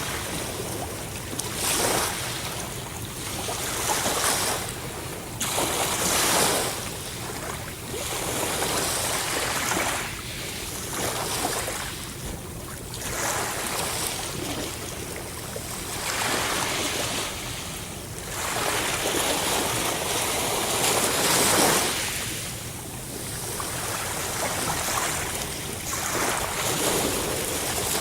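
Sea waves breaking and washing up a shore, the surf swelling and falling away every few seconds.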